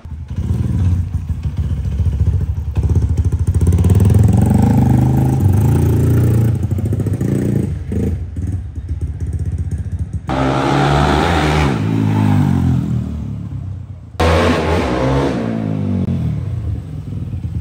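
Hero XPulse 200's single-cylinder engine on a ride, its pitch rising and falling as it accelerates and shifts. The sound breaks off suddenly about ten seconds in and again about fourteen seconds in.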